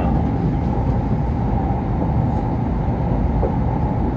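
Steady running noise of a Kyushu Shinkansen Sakura train, heard from inside the passenger cabin as it travels along an elevated viaduct: a constant low rumble.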